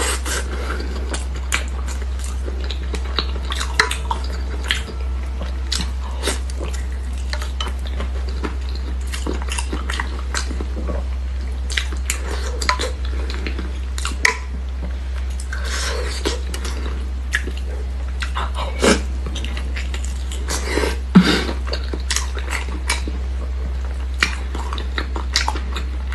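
Close-up eating sounds: wet chewing and lip smacks from a person eating soft offal parcels (sheep brain wrapped in intestine), with scattered short clicks and the odd tap of chopsticks on a dipping bowl, over a steady low hum.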